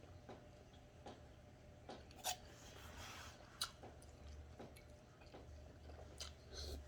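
Faint eating sounds: quiet chewing with a few sharp clicks of cutlery against a plate.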